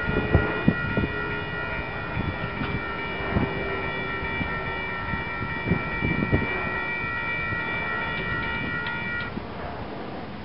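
Metra diesel-hauled commuter train pulling away under power, with a low steady rumble and a few sharp clacks of wheels over rail joints. A steady high-pitched ringing from the grade-crossing warning bells runs over it and cuts off about a second before the end.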